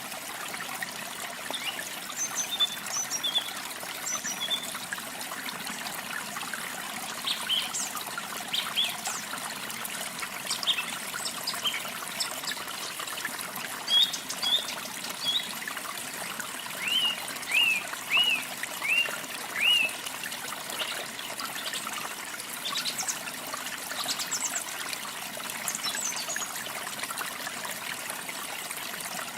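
Water trickling steadily, with songbirds chirping over it. Short high calls come throughout, and a run of five quick falling chirps sounds a little past the middle.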